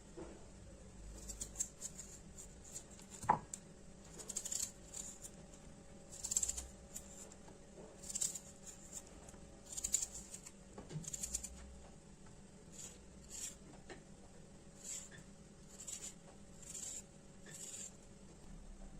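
Kitchen food-preparation handling sounds: short scraping strokes about every one to two seconds, with one sharp knock about three seconds in.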